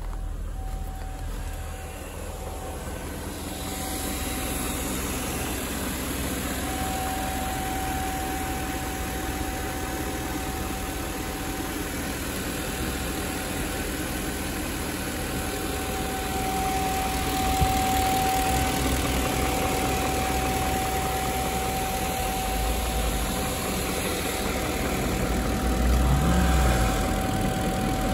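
BMW 740i E38's 4.4-litre V8 idling steadily while warming up, with a constant thin whine above the engine note. Near the end the engine briefly rises and falls in pitch.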